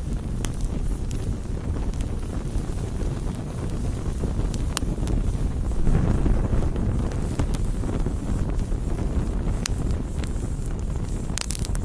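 Campfire burning: a steady low rush of flames with sharp pops and crackles of burning wood scattered through it, and a swell in the low rush about six seconds in.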